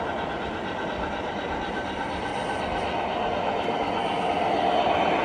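A train running along the track: a steady noise of wheels on rail, getting slightly louder near the end.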